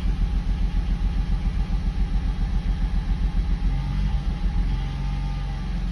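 Mercedes-Benz W140 engine idling steadily with an even low pulse, running again after a replacement control module cured its no-start fault.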